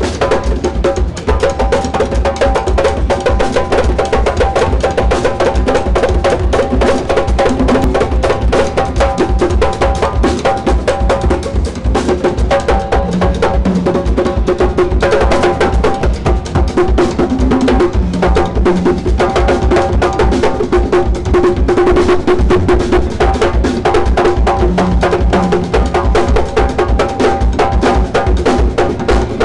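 Live band playing loudly, with a drum kit and percussion keeping a fast, steady beat under held instrument notes.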